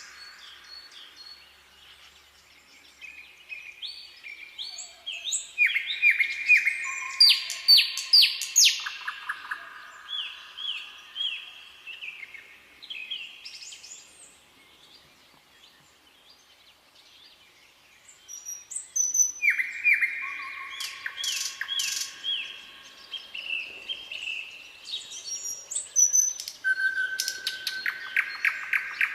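Songbirds singing: runs of quick repeated chirps and whistled notes in two long bouts, with a quieter lull of several seconds between them.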